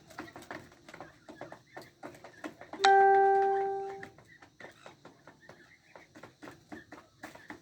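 Birds chirping and clicking in quick, short calls, with a single bell-like chime about three seconds in that rings out and fades over about a second.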